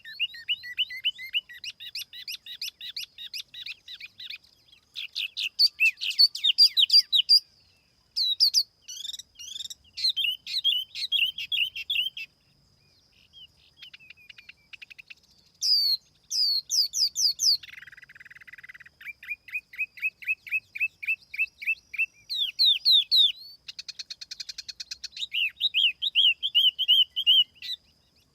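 Tiểu mi songbird singing, as played on a lure recording: fast trills of sharp high notes in phrases a few seconds long, separated by short pauses.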